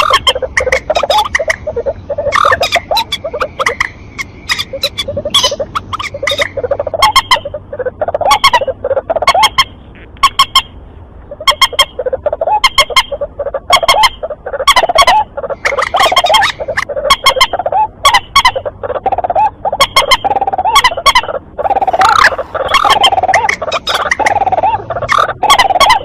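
Lure recording of rail calls, white-breasted waterhen (ruak-ruak) mixed with mandar batu: loud, harsh call notes repeated rapidly several times a second, with a short pause about ten seconds in.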